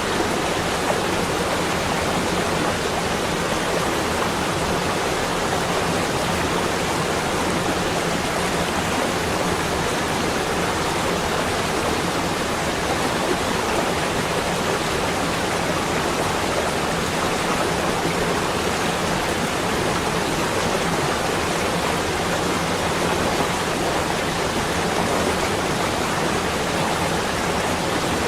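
A steady, even rushing noise with no breaks or separate events, like running water or wind.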